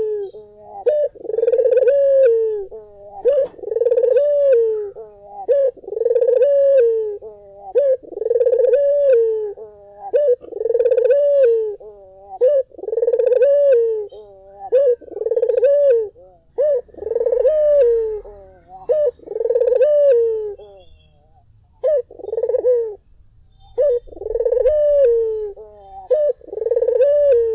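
Barbary dove (puter) cooing over and over, a rolling coo repeated about every second and a half, with a brief pause a little past two-thirds of the way through.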